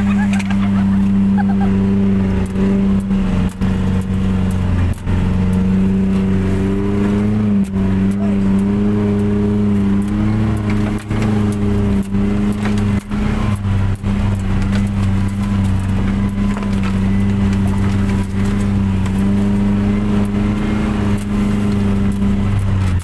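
Suzuki Jimny engine running at a steady, nearly unchanging pitch while it crawls over an off-road trail, with frequent short knocks throughout.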